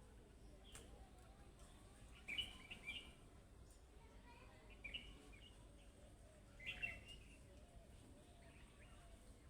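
Budgerigar chirping quietly in three short bursts of chirps, about two, five and seven seconds in.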